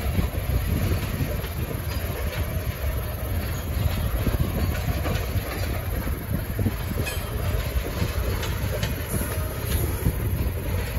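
Freight train of coal cars rolling past, the wheels making a steady low rumble with irregular clicks over the rail joints.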